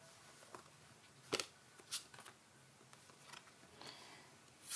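Tarot cards being handled on a table: a few short, scattered card slaps and rustles, as cards are drawn or laid out.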